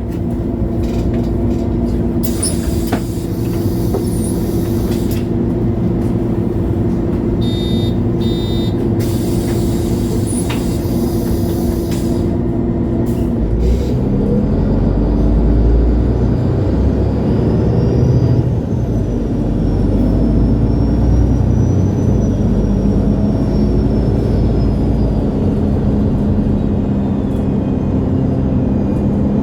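Diesel engine of a 2011 MAN Lion's City G articulated city bus running steadily, with two bursts of compressed-air hissing and a short beeping tone between them. About halfway through the engine note deepens and grows louder as the bus pulls away, with a faint whine that rises and falls.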